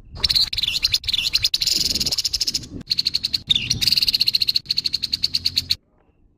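Grey-headed babbler giving its harsh call: a rapid, rasping rattle of many pulses a second, in stretches with short breaks, stopping a little before the end.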